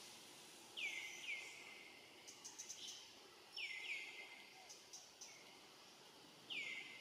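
Bird calling: short notes that sweep downward in pitch, a pair about a second in, another pair nearly four seconds in and a single note near the end, over faint background hiss with a few soft ticks.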